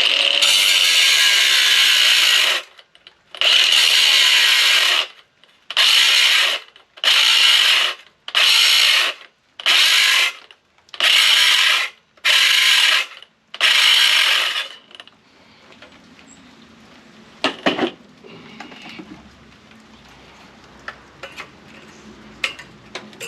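A battery-powered cutting tool cutting into a microwave part in about eight bursts. The first two are long and the later ones short and quick, on a battery the user says is nearly dead. It then falls quiet except for a few light metallic clicks.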